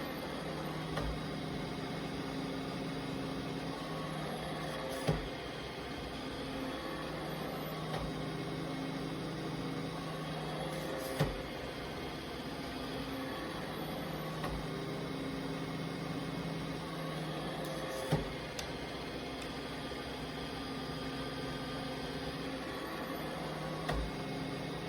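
iRobot Roomba 692 robot vacuum running, its motors and brushes giving a steady whirring hum whose pitch shifts every few seconds, with four sharp knocks about six seconds apart.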